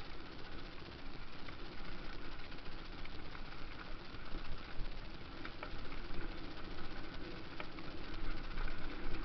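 Motocross dirt bike engines running, a steady blend of engine noise with no single bike's rev standing out.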